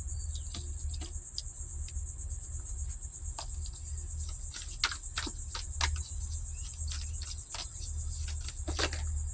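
A steady, high-pitched chorus of insects chirping, with a low rumble underneath and a few scattered small clicks.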